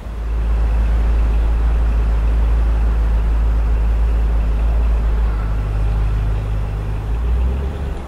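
Car engine running with a heavy, steady low rumble that sets in abruptly and fades away near the end.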